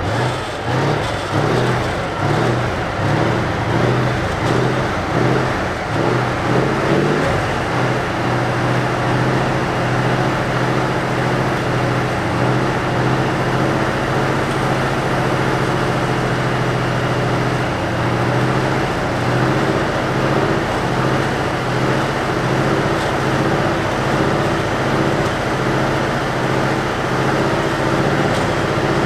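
Diesel engine of a DR1A diesel multiple unit running just after start-up: it runs unevenly for the first several seconds, then settles into a steady, loud run.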